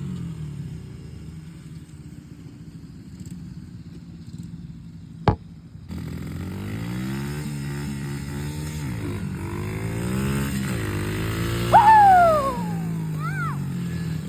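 Small motorbike engine running, its pitch rising and falling as it is throttled up and down. There is a sharp click about five seconds in, and a brief, loud, high-pitched falling sound near the end.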